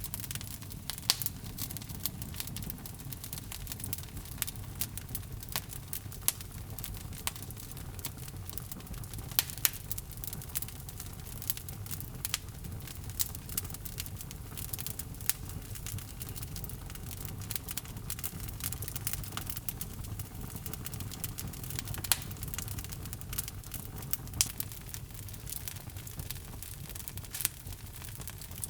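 Wood fire burning in a fireplace: steady irregular crackling and popping of logs over a low rumble of the flames, with a few sharper pops standing out.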